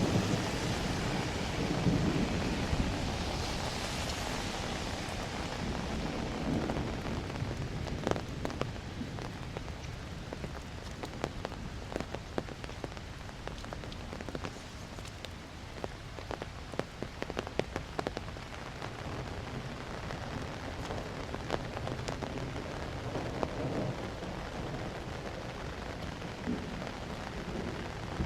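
Steady rain with individual drops ticking close by, and a low roll of thunder that rumbles and fades over the first few seconds.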